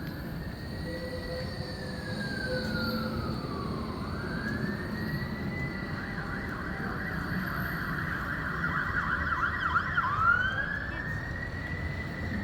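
Emergency vehicle siren wailing in long, slow rises and falls, held high for a few seconds in the middle with a fast flutter, over low street noise.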